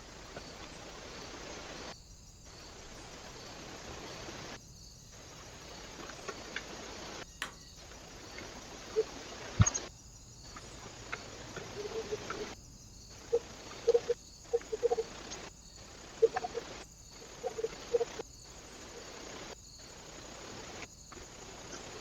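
Steady hiss from a trail camera's microphone, broken every few seconds by a short gap as one clip ends and the next begins. In the middle come a single sharp knock and then a run of short, low taps.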